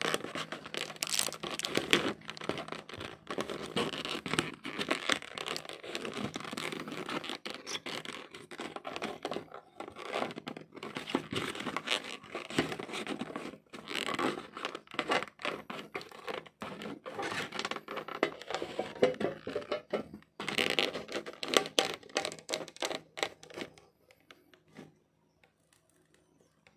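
Close handling noise while working on a laptop: continuous scratching, scraping and crinkling with many small irregular clicks, stopping about 24 seconds in.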